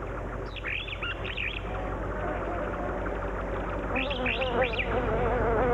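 Birds chirping in short bursts, over a wasp's wings buzzing, wavering in pitch and growing louder from about two seconds in.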